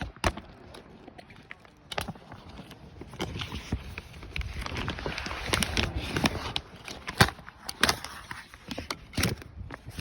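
Stiff boat shrink-wrap plastic crackling and rustling as it is pulled and broken off. Sharp cracks come every second or two, with a longer stretch of dense rustling in the middle.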